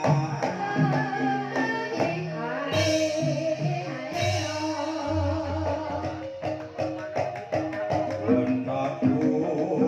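Banyumasan gamelan playing a gending in the ebeg style: pitched struck tones sounding in a steady rhythm over frequent hand-drum strokes.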